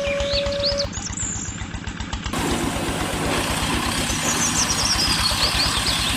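Small engine running with a rapid, even beat of firing pulses, cut between clips twice. Birds chirp faintly over it in the second half.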